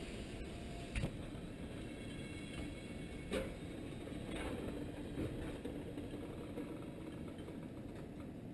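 Railroad tank cars rolling slowly past on the track: a steady low rumble of the cars' wheels and running gear, broken by sharp clacks, the loudest about a second in and again just past three seconds.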